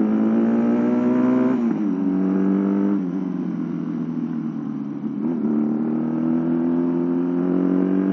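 A Honda Astrea Prima motorcycle running on a home-built twin-cylinder engine, made by joining two single-cylinder Honda engines, pulling under way. Its note climbs with road speed and falls sharply twice early on as it changes up. It then climbs slowly again.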